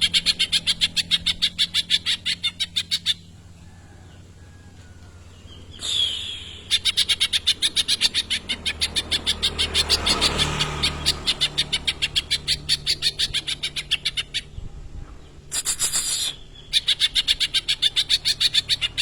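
Green leafbird (cucak ijo) singing long runs of fast, harsh repeated notes, about eight a second, in three bouts with pauses between: its imitation of a kingfisher's (tengkek) call. A short rasping note comes before the second and third bouts.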